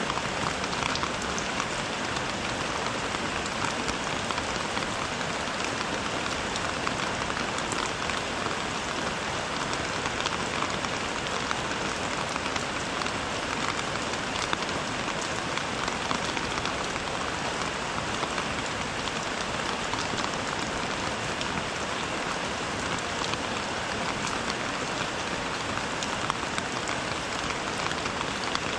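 Steady rain falling, an even hiss dotted with many fine drop ticks.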